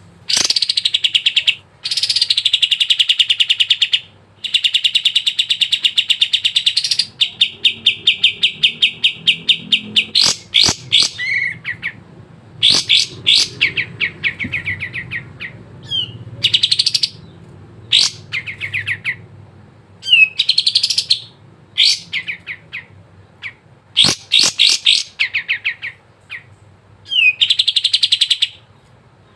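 Kapas tembak songbird singing in full 'gacor' song: long, fast rattling trills of rapidly repeated high notes, in bouts of one to a few seconds separated by short pauses.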